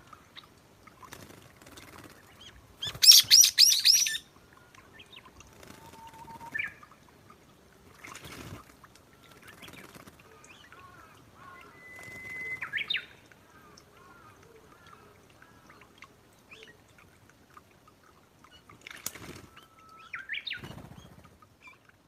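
Wild birds calling, among them a brown-eared bulbul: a loud, harsh burst of rapid calls about three seconds in, then scattered thin whistles, some rising in pitch. There are a few short fluttering rustles, one near the end.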